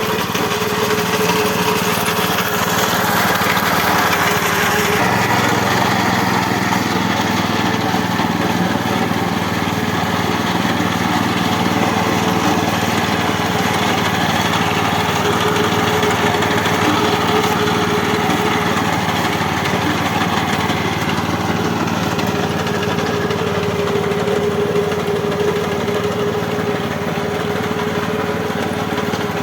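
The small engine of a Ricoh Italy RI 740 power weeder runs steadily as the machine cuts wheat.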